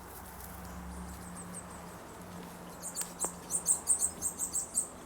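Small bird chirping: a quick run of short, high chirps, about five a second, starting about three seconds in, over a faint steady low hum.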